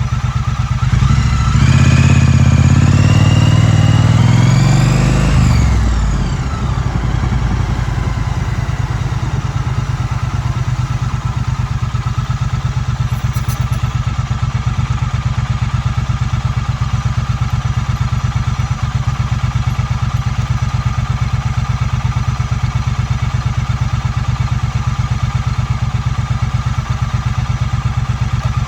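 2016 Triumph Street Twin's 900 cc parallel-twin engine: the revs climb over the first few seconds, fall away about five or six seconds in, and the engine then runs steadily at low revs.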